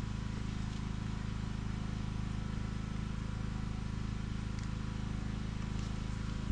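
A motor running steadily, giving a low, even hum with no change in pitch or level.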